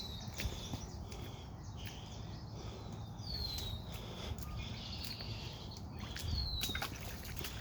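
A songbird calling repeatedly, each note a whistle sliding down and then holding briefly, every second or two. Beneath it are a low steady rumble and scattered faint clicks.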